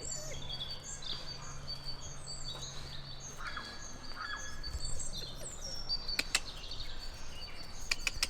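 Small birds chirping and singing, many short high calls overlapping throughout. A low steady hum underneath stops a little past halfway, and a few sharp clicks come near the end.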